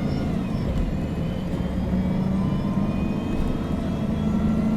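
MAN NG 313 CNG articulated bus's natural-gas engine running under way, heard from inside the passenger cabin as a steady low drone with a faint whine above it.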